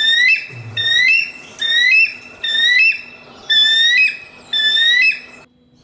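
A bird calling. It gives about six loud, clear calls in a row, roughly one a second, and each call glides upward and then jumps to a higher note.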